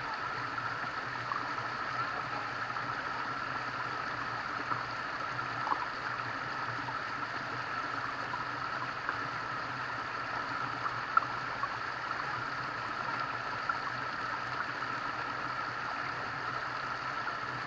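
Steady rush of running water from a stream, with a few faint ticks and clicks over it.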